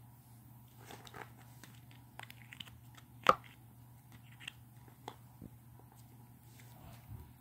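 Slime being handled and mixed, with scattered small crackling and squishing clicks and one sharp pop about three seconds in.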